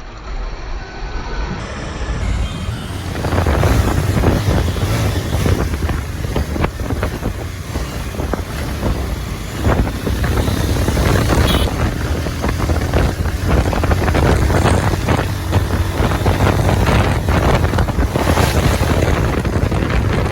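Wind buffeting the microphone of a moving motorcycle, over the steady low drone of its engine. It grows louder about three seconds in and stays loud.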